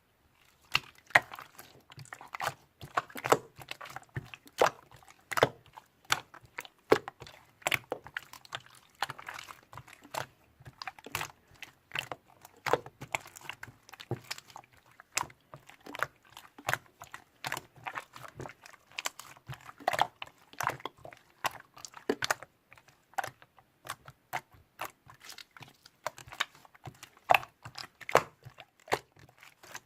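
Irregular sharp crunching and crackling clicks, one to three loud ones a second among many softer ones, close up.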